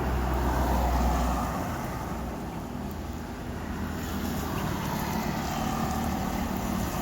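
Low engine rumble of a road vehicle that fades out about a second and a half in, followed by steady outdoor traffic noise.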